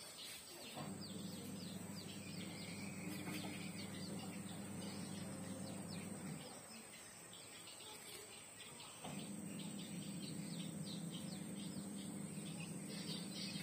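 Faint, frequent high chirping of small birds in the background. A steady low electric hum starts just after the beginning, cuts off around six seconds in, and comes back about nine seconds in.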